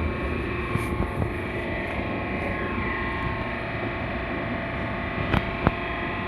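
Hydraulic box-pushing power pack running steadily with a dense machine hum. Two sharp knocks come about five and a half seconds in.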